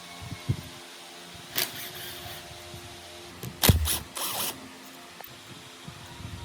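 Workshop handling sounds: a few short knocks and scrapes of parts or tools being handled, with one louder knock about midway, over a steady mechanical hum.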